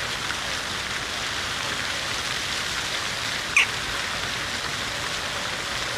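City fountain's water falling and splashing in a steady hiss. A single short, sharp sound stands out about three and a half seconds in.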